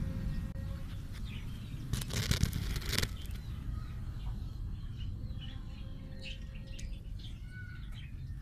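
Small birds chirping in short calls, most of them in the second half, over a steady low rumble. A loud rustling burst about a second long comes two seconds in.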